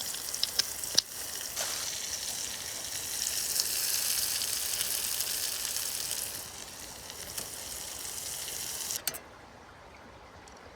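A steady sizzle with scattered sharp clicks and crackles. It stops abruptly about nine seconds in, leaving a quieter hiss with a few faint ticks.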